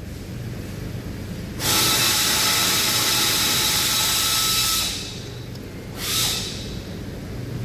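Compressed air hissing from a blow gun: one long blast of about three seconds, then a short one about six seconds in, over a steady low hum.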